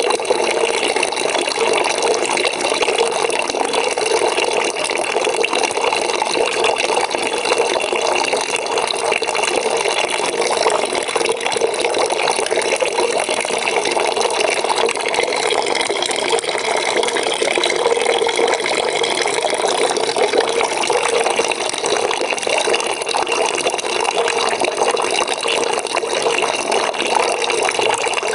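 Water pouring steadily into a bucket as it fills, making an even, unbroken splashing rush.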